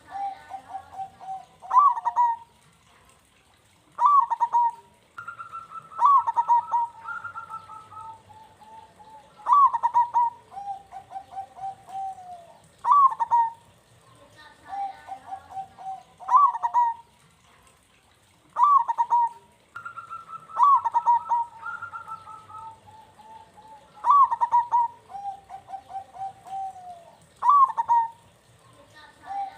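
Zebra dove (perkutut) singing its cooing song over and over. Each phrase opens with a sharp falling note and runs into a quick string of short coos, and a new phrase starts about every three to four seconds.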